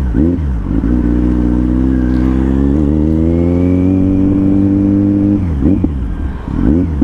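Kawasaki Z900's inline-four engine running under way, its note rising steadily for a few seconds as the bike pulls, then dropping and swinging up and down near the end as the throttle changes.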